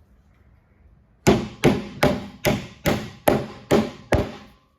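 Hammer striking a metal punch against thick copper flashing on a wooden fence post top, about eight sharp, evenly spaced blows, roughly two or three a second, starting a little over a second in.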